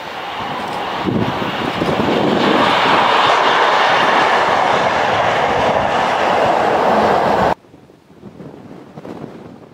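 A train passing close by, its noise building over the first two seconds and staying loud, then cutting off suddenly about three quarters of the way through, leaving only faint wind.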